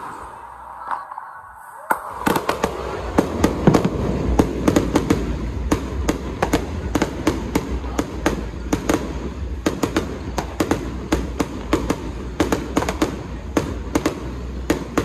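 Fireworks going off: a few pops, then from about two seconds in a dense run of bangs and crackles, several a second, over a low rumble.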